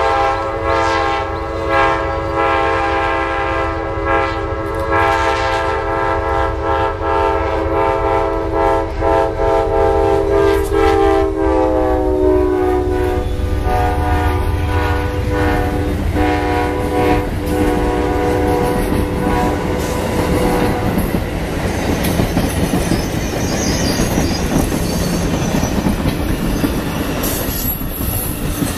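Diesel locomotive's air horn holding one long blast. Its pitch drops about twelve seconds in as the locomotive passes, and it stops about twenty seconds in. After that, the rumble and clatter of the train's cars rolling by takes over.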